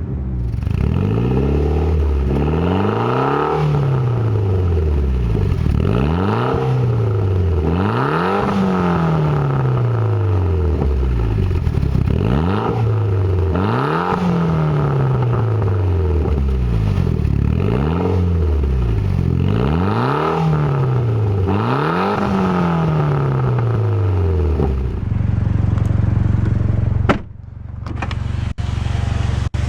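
Turbocharged 2.0-litre four-cylinder engine of a 2008 Mitsubishi Lancer Evolution GSR being revved over and over, its pitch climbing and falling about every two and a half seconds, with turbo whine. Near the end the revving stops and the engine runs steadily, with a brief dip in sound a couple of seconds later.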